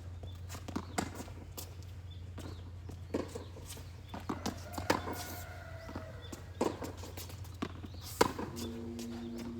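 Tennis rally: a string of sharp knocks from racquets striking the ball and the ball bouncing on the court, coming at uneven intervals of about a half second to a second, with a steady low hum underneath.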